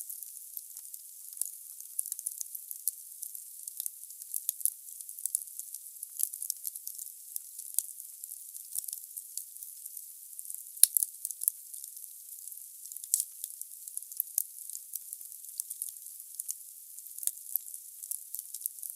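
Wood burning in a fireplace: a steady high hiss with frequent small crackles, and one sharper, louder pop near the middle.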